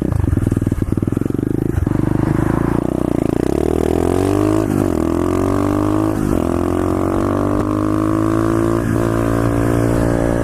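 SSR pit bike's single-cylinder engine pulling away and accelerating. Its pitch climbs and drops three times as it shifts up through the gears, then holds steady at cruising speed.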